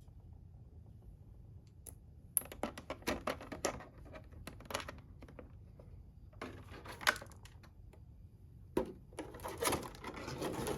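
Packaging of a boxed figure being handled by hand: several spells of quick rustling, crinkling and clicking, starting about two seconds in, again around six to seven seconds, and a longer spell near the end.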